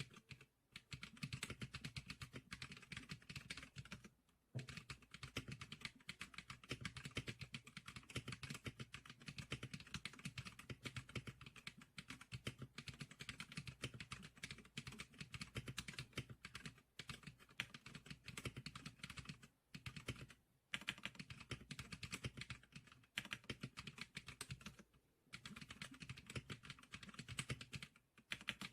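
Fast, continuous typing on a Zikliker SPK100 keyboard, a dense run of key clicks broken by a few short pauses.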